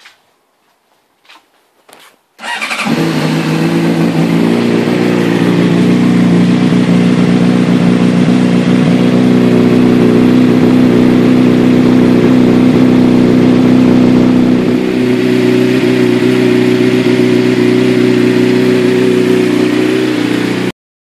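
2006 Honda CBR600RR's inline-four engine breathing through a carbon fibre Yoshimura RS-5 race exhaust: a cold start about two seconds in after a few faint clicks, then a steady, low-noted idle that stops abruptly near the end.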